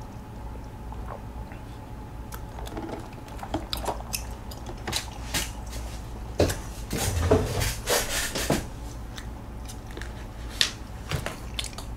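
Close-miked mouth sounds of sipping and chewing chewy tapioca pearls from bubble tea: soft, wet, scattered clicks. A few louder knocks and a low bump come just after the middle.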